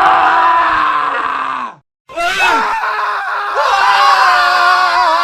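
Several men screaming at once, their screams layered on top of each other. The screams cut off suddenly a little under two seconds in, and after a brief silence a new set of overlapping male screams starts and carries on.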